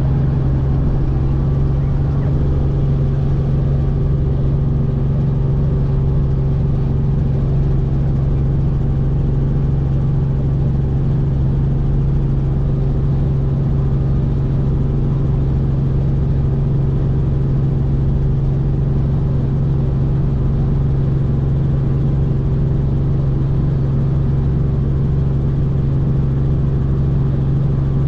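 Helicopter in flight: a loud, steady drone of rotor and engine with a strong low hum that holds unchanged throughout.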